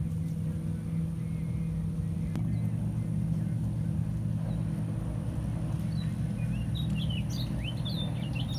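A bird chirps in a quick run of short calls over the last few seconds, above a steady low hum from a running motor.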